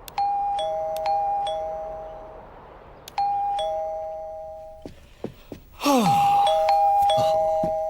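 Two-tone ding-dong doorbell chime rung three times, about three seconds apart, each ring a higher note followed by a lower one. A falling swoop of sound comes in with the third ring.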